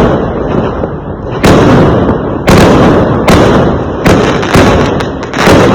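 Fireworks exploding: a run of about six loud bangs roughly a second apart, each trailing off in a rumble.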